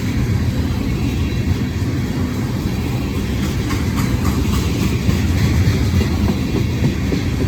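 A long freight train of tank cars led by a CN ET44AC diesel locomotive running past, a steady heavy low rumble, with a few faint clicks a little past the middle.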